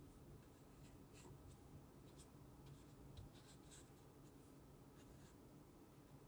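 Faint scratchy strokes of a watercolor paintbrush working paint, a few soft swishes spread over a quiet, steady room hum.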